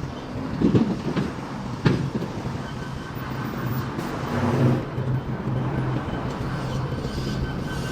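City street traffic: vehicles running past under a steady low engine drone, with two sharp knocks about one and two seconds in and a passing swell near the middle.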